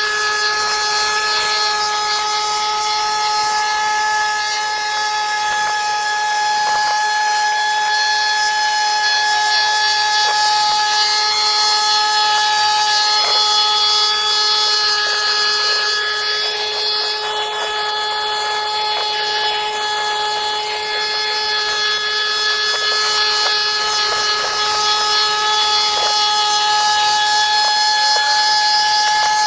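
A motorised power tool running steadily at one constant high speed, its pitch unchanging.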